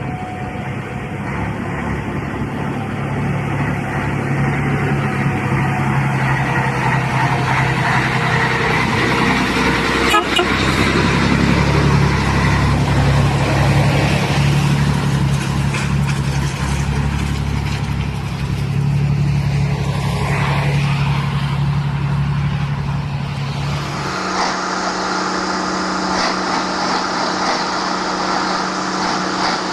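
Scania 112 truck's diesel engine running steadily, with an abrupt change in the sound about 24 seconds in.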